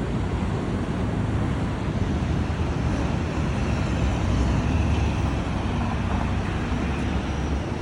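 Steady road traffic noise: car engines and tyres passing at a busy city intersection, with a deep, even rumble and no siren.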